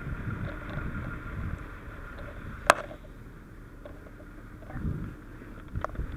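Low rumbling and shuffling noise, with one sharp, loud click about two and a half seconds in and a few softer knocks near the end.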